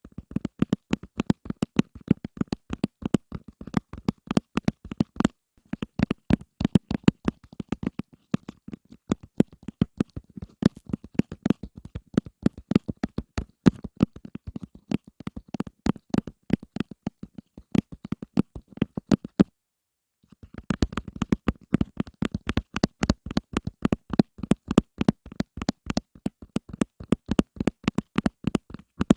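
ASMR tapping: rapid, soft taps, several a second, with a brief pause about two-thirds of the way through.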